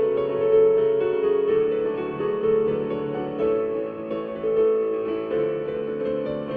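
A keyboard instrument with a piano sound playing a simple melody of held notes over a lower accompaniment line, recorded as two overdubbed parts.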